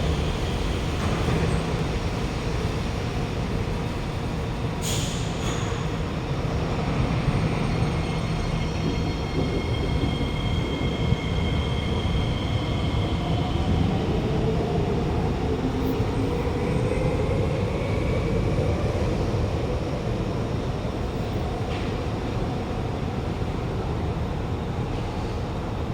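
Inside a Kawasaki–CRRC Qingdao Sifang C151A metro car running on the line: a steady low rumble of wheels and running gear, with the traction motors' echoey electric whine drifting in pitch over it and a few short clicks from the track.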